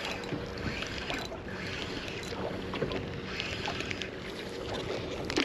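Water lapping and light wind on the microphone, with a few faint clicks scattered through.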